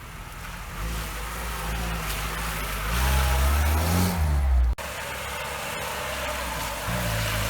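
Off-road 4x4's engine revving, building from about a second in and climbing higher around three to four seconds. It breaks off abruptly before five seconds, then runs more steadily and picks up again near the end.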